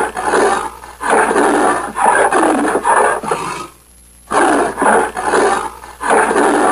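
Leopard giving its rasping sawing call: a run of harsh strokes about half a second each, with a short pause a little past halfway before the series starts again.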